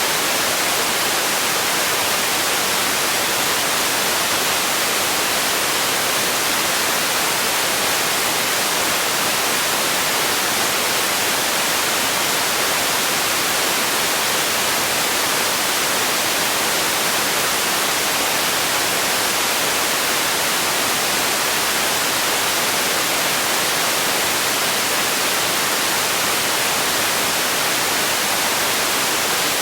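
Steady white-noise hiss, even and unchanging throughout, with no events in it.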